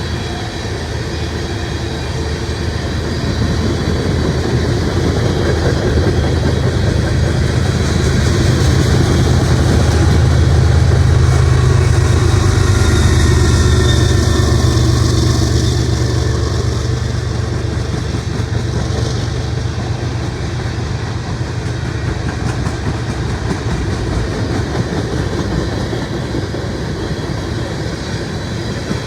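Norfolk Southern mixed freight train rolling past, its wheels clacking over the rail joints. A low drone swells to a peak about halfway through, then eases off.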